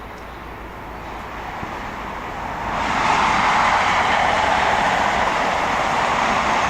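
Train passing, its rushing rumble building over the first few seconds and then holding steady and loud.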